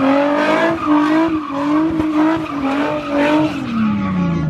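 Car engine held at high revs while the tyres skid and squeal in a burnout-style spin. The pitch wavers and then falls away near the end as the revs drop.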